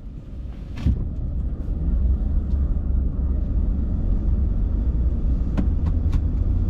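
A car being driven: a steady low rumble of engine and road that builds over the first couple of seconds and then holds, with a sharp knock about a second in and a few lighter knocks near the end.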